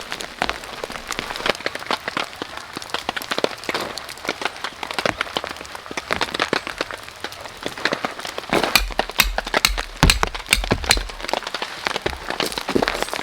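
Cold rain falling, with many irregular sharp drop taps close by. A low rumble comes in between about 9 and 11 seconds.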